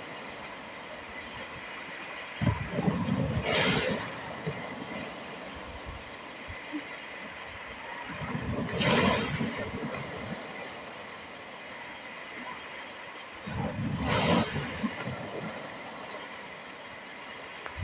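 Sea waves breaking on the shore, three times about five to six seconds apart, each a low rumble rising into a hiss of washing water over a steady surf background.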